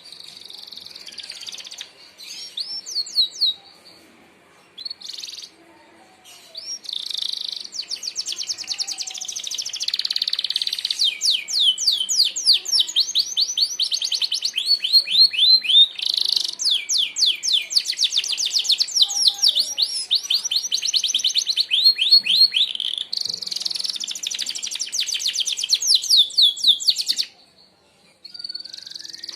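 Merlok canary singing its 'tembakan' song: long, fast trills of sharp, high notes, each sweeping downward, many per second, phrase after phrase with a few short breaks.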